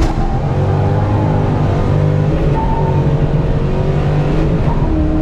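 Twin-turbo small-block Mopar V8 running, its engine speed rising and falling gently several times.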